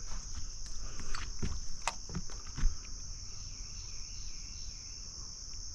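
Steady high insect chorus droning evenly, with a few small clicks and knocks in the first few seconds, the loudest about two and a half seconds in.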